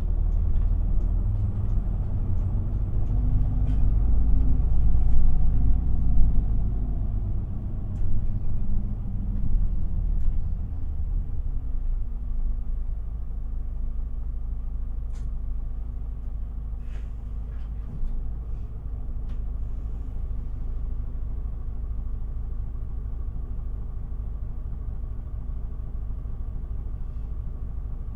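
Isuzu Erga city bus diesel engine heard from inside the cabin, pulling louder for about eleven seconds. It then drops to a steady, quieter idle with a few light rattles and clicks.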